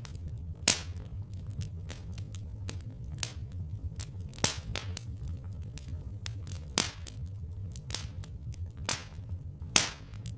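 Wood fire crackling, with frequent small snaps and several louder pops, over a steady low rumble.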